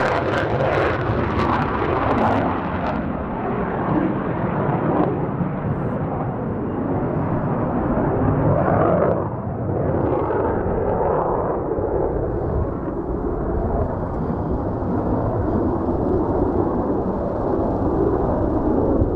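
Mitsubishi F-2 fighter's jet noise fading within the first few seconds as it climbs away. After that, a steady low rumble of strong wind buffeting the microphone.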